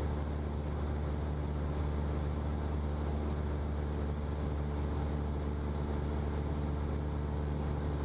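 Light Cessna's propeller engine droning steadily at cruise power in the cockpit, one constant pitch throughout.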